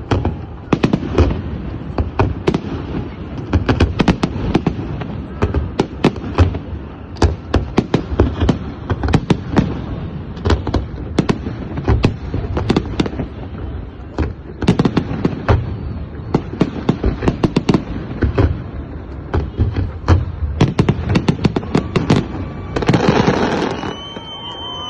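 Fireworks display going off: dozens of sharp bangs and cracks in quick succession over a low rumble, with a denser rushing burst shortly before the end.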